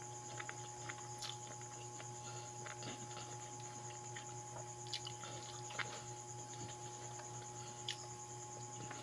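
Mouth sounds of a person eating noodles by hand: irregular soft clicks and smacks of chewing, over a steady electrical hum.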